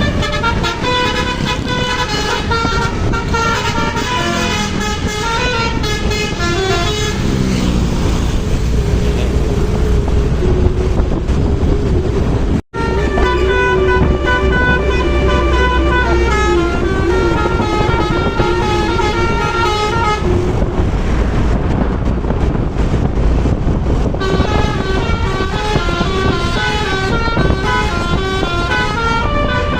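Bus basuri horns, multi-tone musical air horns, playing a stepping tune almost without pause over the rumble of the passing vehicle. The sound cuts out completely for a split second about 13 seconds in.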